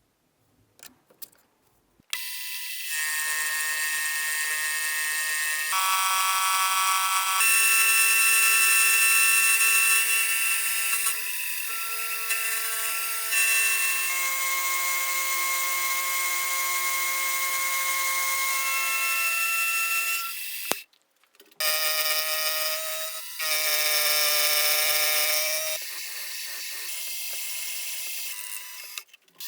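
Motor-driven workshop machine tool running with a high-pitched whine made of several steady tones. The pitch shifts in steps every few seconds, and the sound cuts out briefly about 21 seconds in.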